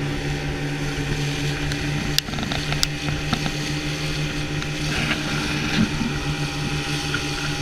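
Motorboat's outboard engine running steadily at an unchanging pitch, with a couple of short clicks about two to three seconds in.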